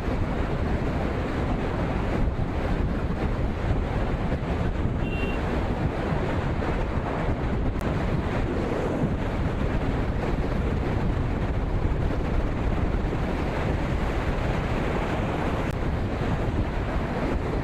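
Steady wind rushing over the microphone of a moving motorcycle, heaviest in the low end, with no break.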